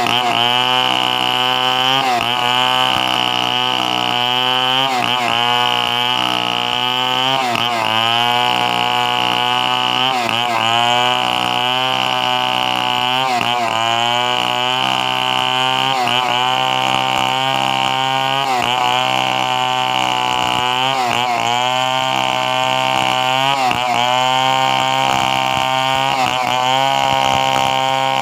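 Two-stroke chainsaw running at high speed while cutting coconut wood. Its pitch sags and recovers about every two to three seconds as the chain bites under load.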